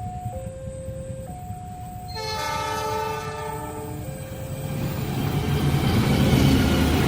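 Level-crossing warning alarm sounding its two alternating tones, then a train horn blowing a chord for nearly two seconds about two seconds in. After it, the rumble of the approaching train grows louder and is loudest near the end.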